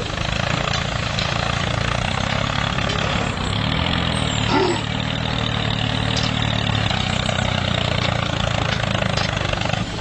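An engine running steadily, with an even low drone and no breaks.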